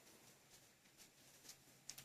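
Near silence: faint room tone with a low hum, in a pause between sentences of speech.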